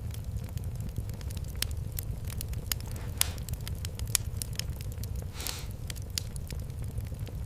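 Fire in a fireplace crackling, with sharp irregular pops over a steady low rumble and a brief hiss about five and a half seconds in.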